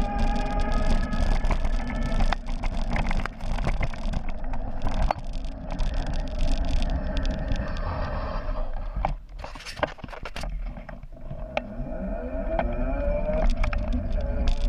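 Electric bike motor whining while riding: the whine fades out in the middle and rises in pitch again about twelve seconds in as the bike picks up speed. It sits over a steady low rumble, with scattered sharp knocks and rattles.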